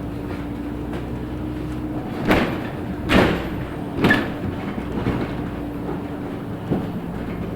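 Interior of a LiAZ 6213.65 articulated city bus under way: a steady engine and drivetrain drone. The drone drops about two seconds in, and three short, loud clattering knocks follow about a second apart, with a lighter one near the end.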